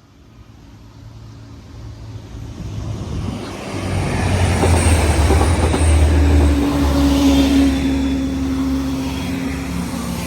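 Diesel passenger train passing over a level crossing. Its engine hum and the wheel noise build up from quiet, are loudest in the middle with a steady higher whine, then ease off as it moves away.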